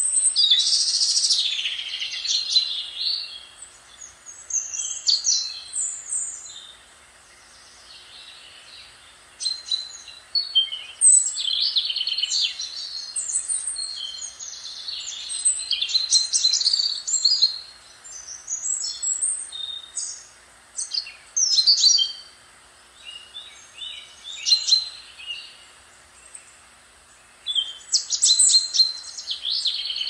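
Songbirds singing, several birds trading phrases of high, rapid chirps and trills in bursts a second or two long with short pauses between.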